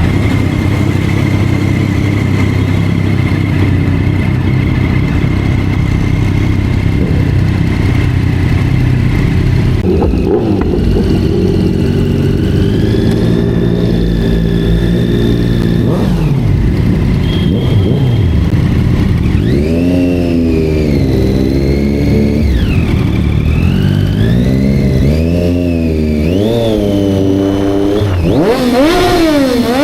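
Sport motorcycle engine running at a steady idle, then revved in a series of throttle blips, its pitch rising and falling over and over through the second half.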